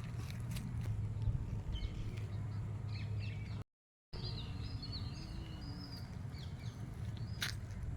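Small birds chirping and twittering over a steady low rumble, with more chirps in the second half. The sound cuts out completely for a moment near the middle.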